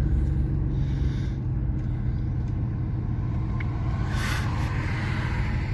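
1989 Chevy S10 Blazer's 4.3 L V6 engine running steadily while driving, a low even rumble. A brief hiss about four seconds in.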